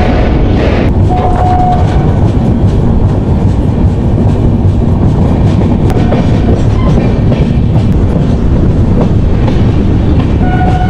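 Passenger train running at speed, heard from an open coach door: a loud steady rumble of wheels on the rails, with a short steady tone sounding a few times.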